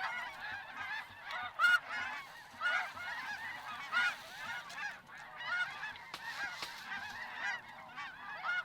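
A large flock of snow geese calling: a dense, unbroken chorus of many overlapping high-pitched honks, with a few louder single calls standing out now and then.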